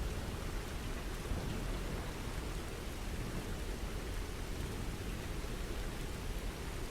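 Steady rain falling, an even, unbroken hiss with most of its weight in the low end.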